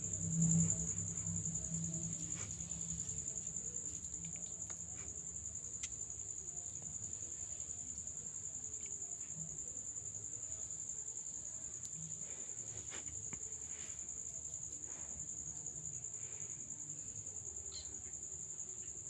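Insects trilling steadily at one high pitch, with a few faint clicks scattered through. A low hum fades out over the first few seconds.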